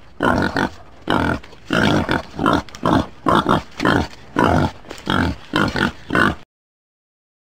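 Warthog grunting: about a dozen short, rough grunts, roughly two a second, cutting off about six and a half seconds in.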